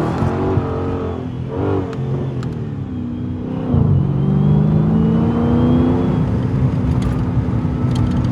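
Straight-piped 2020 Dodge Charger Scat Pack's 6.4-litre Hemi V8 exhaust: the revs jump up and fall back twice in the first two seconds, typical of rev-matched downshifts. It pulls up again about four seconds in and then holds a steady note.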